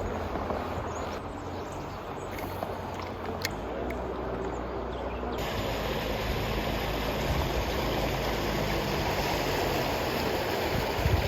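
Steady rushing noise of water and wind around a small fishing boat, with a few faint clicks in the first half.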